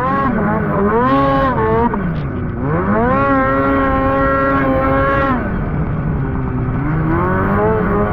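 Two-stroke snowmobile engine revving as it rides, its pitch climbing and falling: a dip about two seconds in, a climb held high for a couple of seconds, a drop around the middle, and a rise again near the end.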